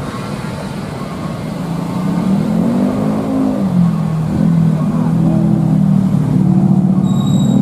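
A heavy vehicle's engine pulling hard on a steep climb: its pitch rises and falls about two to three seconds in, then holds steady and grows louder. A brief high beep sounds near the end.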